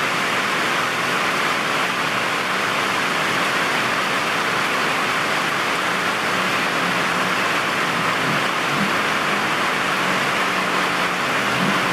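Heavy rain pouring steadily, a dense even hiss. A faint low hum comes in about halfway through.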